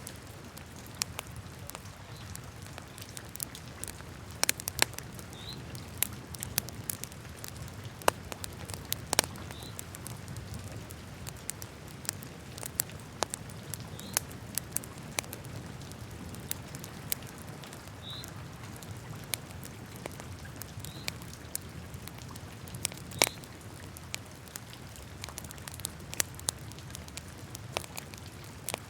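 Wood fire crackling in a fireplace: irregular sharp pops and snaps over a low steady rumble of burning, with now and then a short high squeak.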